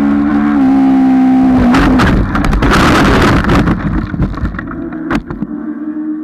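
Motor vehicle running with a steady droning note that dips slightly in pitch, drowned about two seconds in by a loud rushing noise with sharp clicks for a couple of seconds. The drone returns afterwards, with a sharp knock about five seconds in.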